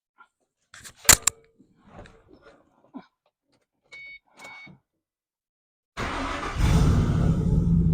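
The Mustang GT's 4.6-litre three-valve V8 is cranked and catches about six seconds in, then runs steadily: its first start after a cylinder-head swap. Before it, a sharp click about a second in and two short beeps about half a second apart.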